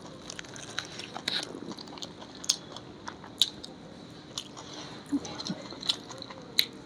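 Close-miked chewing of a mouthful of cooked baby corn, with scattered sharp mouth clicks. The baby corn is not crunchy.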